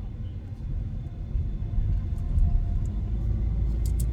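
Steady low road and engine rumble inside a moving car, with a couple of short clicks near the end.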